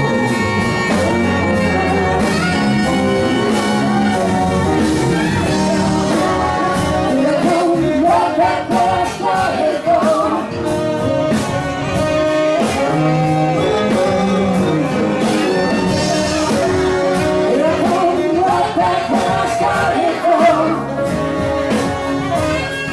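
Live blues-rock band playing loudly, with singing over the band.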